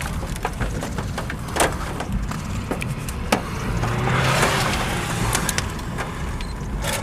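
Storm noise heard from inside a car: a steady low vehicle rumble with scattered sharp hits of hailstones on the car body. About four seconds in, a surge of wind noise swells and fades.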